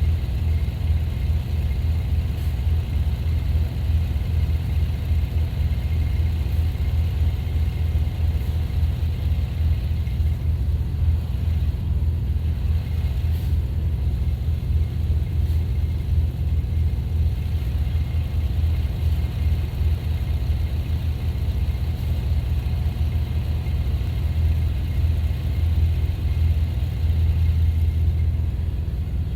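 Gasoline vehicle engine running steadily under load with a constant low rumble.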